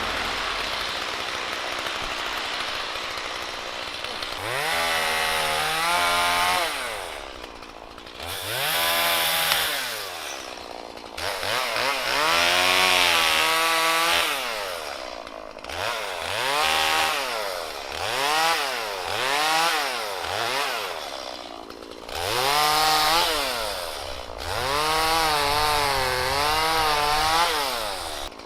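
Gas chainsaw cutting up a fallen tree, its engine revving up to full speed and falling back about nine times as each cut is made and the throttle released.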